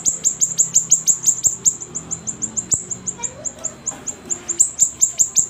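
Siri-siri bird singing vigorously: a fast, unbroken run of short high-pitched chip notes, each dropping in pitch, about six a second.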